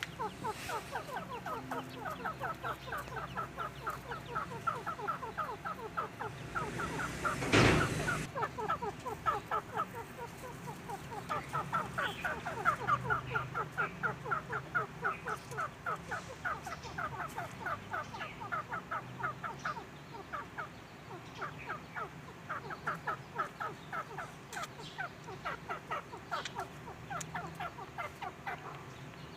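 A group of quail calling together in a dense run of short, rapid chirping notes, many overlapping. A brief loud burst of noise breaks in about seven seconds in.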